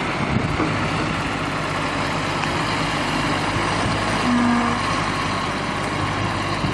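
Tractor engine running steadily under load while pulling a stuck tractor free.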